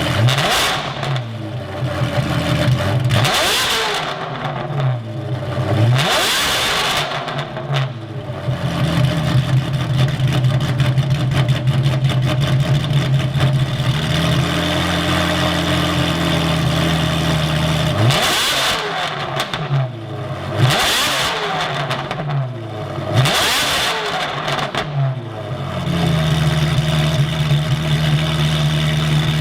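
Ferrari engine with a straight-piped exhaust revved in three short throttle blips, settling back to a steady idle. Three more blips come about two-thirds of the way through before it idles again.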